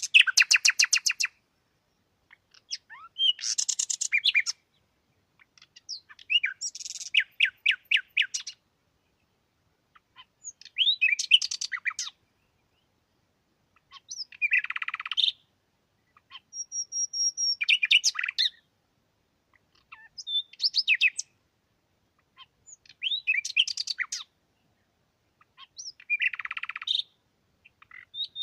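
A songbird singing short phrases of rapid repeated notes and trills, one phrase every two to three seconds with silence between them.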